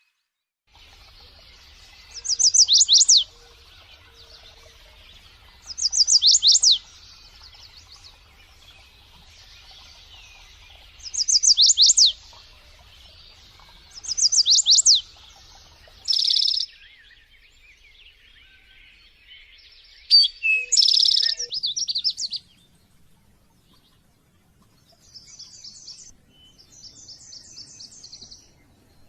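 Songbirds singing. One bird repeats a short phrase of rapid high whistles sweeping downward four times, a few seconds apart. Louder, sharper bursts of calls follow, then softer quick trills near the end.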